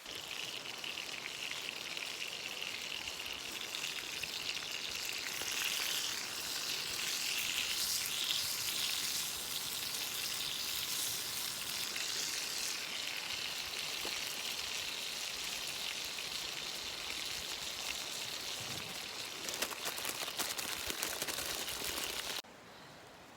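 Food frying in a hot pan: a steady sizzle with fine spitting crackles, cut off suddenly near the end.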